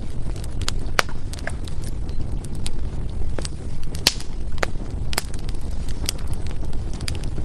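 Wood fire crackling, with irregular sharp pops and snaps from the burning logs over a steady low rumble of the flames. The loudest pop comes about four seconds in.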